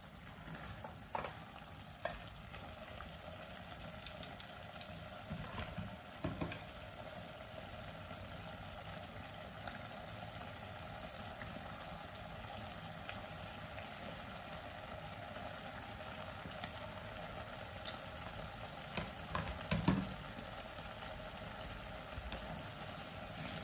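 Chicken and vegetables sizzling steadily in a pot, with a wooden spatula stirring and scraping against it. Scattered short knocks, the loudest about twenty seconds in.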